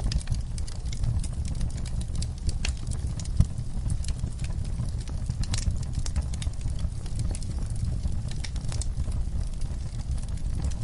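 Wood fire in a fireplace crackling, with irregular sharp pops and snaps from the burning logs over a low steady rumble of flames; one louder pop about three and a half seconds in.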